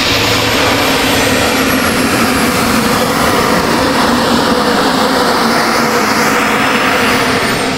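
Model jet's turbine engine running loud and steady, with a thin high whine that slowly falls in pitch.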